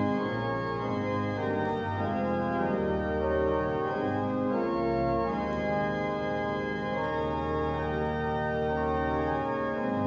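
Church organ playing slow, sustained chords over deep bass notes, with a full chord coming in at the start.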